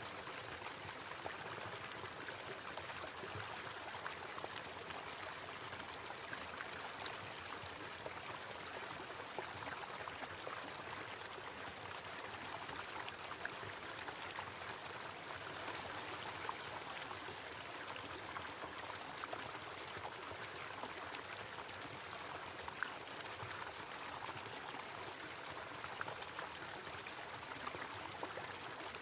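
Small waterfall splashing and pouring steadily into a stream, with small droplet splashes ticking through it.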